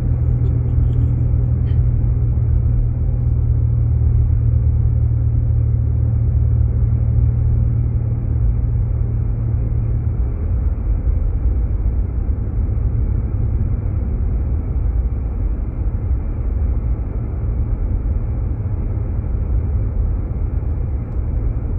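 Steady low road rumble and engine drone inside the cabin of a Jeep Grand Cherokee driving on a snowy road. The deepest hum eases a little about halfway through.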